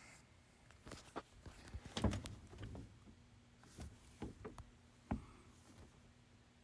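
A scattered series of sharp clicks and light knocks, loudest about two seconds in and again just after five seconds, like handling noise.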